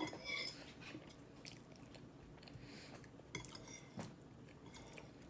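A person chewing a mouthful of salad close to the microphone, with a few sharp clicks and taps, the loudest right at the start.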